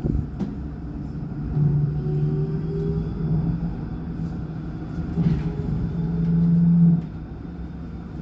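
2007 Alstom NGT8D tram running, a steady motor hum with a rising whine; the hum swells louder and then drops off suddenly about seven seconds in.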